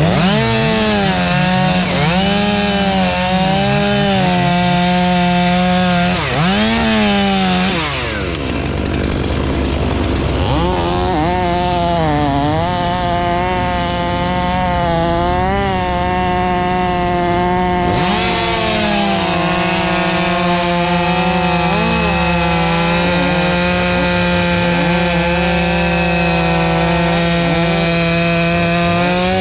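Two-stroke chainsaw running at high revs while cutting wood. Its pitch dips and recovers again and again in the first several seconds as the chain bogs down in the cut, then holds steadier.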